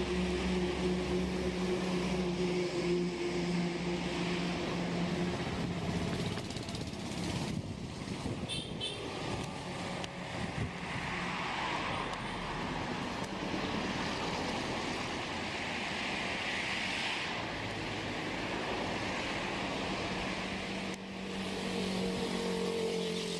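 Outdoor background noise with a vehicle engine running: a steady low hum that fades about five seconds in and returns near the end.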